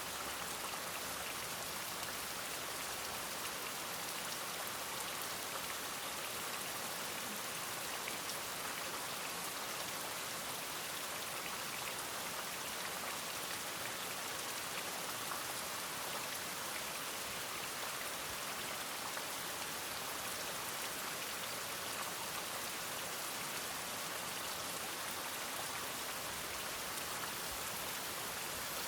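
Steady rain: an even hiss of falling rain with a dense patter of individual drops, holding constant throughout with no thunder.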